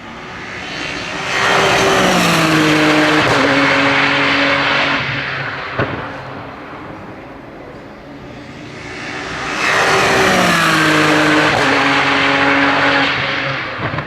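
Two racing cars passing at speed, one after the other about eight seconds apart. Each engine note swells, then falls in pitch as the car goes by.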